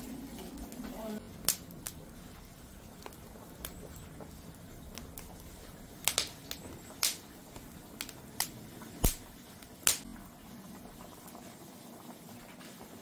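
Firewood burning in an agungi fire hole, crackling with sharp, irregular pops over a low steady hiss.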